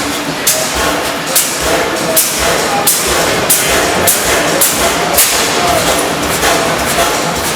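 15 hp Witte sideshaft stationary gas engine running, its exhaust firing in sharp reports at an even pace of about one every two-thirds of a second.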